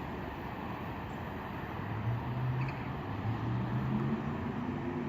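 Steady outdoor background noise with a low vehicle engine drone that comes in about two seconds in and grows slightly louder.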